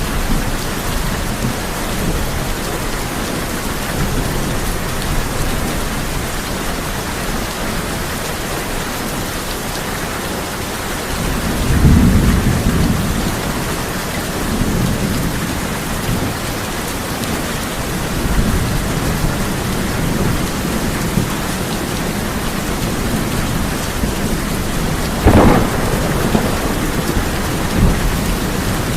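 Steady heavy rain drumming on a tin roof, with rolling thunder: a deep rumble swells about twelve seconds in, and a sharper, louder crack of thunder comes near the end.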